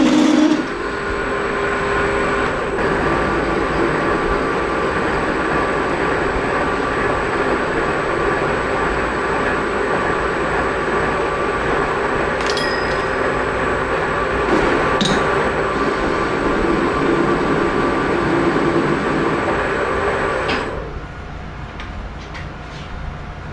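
Shop machine tool running steadily while working a steel bar, with a couple of light clicks partway through; it winds down about 21 seconds in, leaving a quieter hum.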